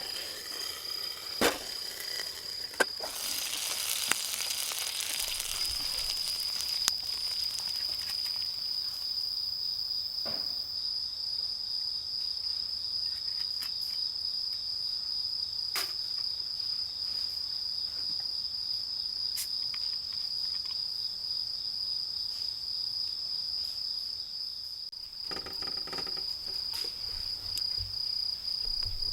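Insects calling in one steady, unbroken high-pitched trill, with a handful of sharp clicks scattered through.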